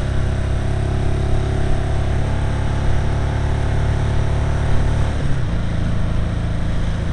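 Kawasaki KZ750 motorcycle engine running steadily while riding, with a rush of noise over it; its note changes and drops a little about five seconds in.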